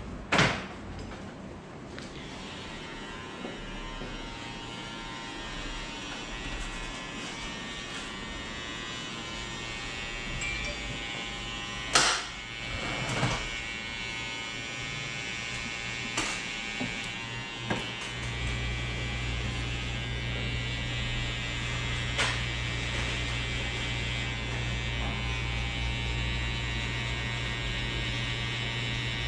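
Electric hair clippers buzzing steadily while cutting a fade, broken by a few sharp clicks. About two-thirds of the way through, a deeper, louder hum sets in and holds.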